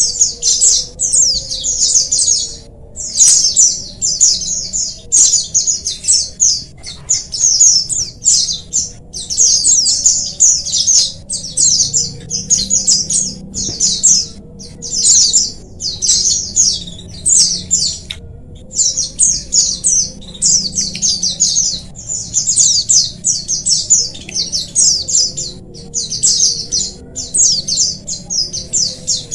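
A group of white-eyes (pleci) singing together: continuous, overlapping, rapid high twittering phrases with only brief pauses.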